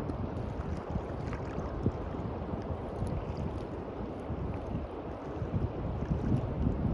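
Sea waves washing onto a beach, with wind buffeting the microphone in uneven low rumbles.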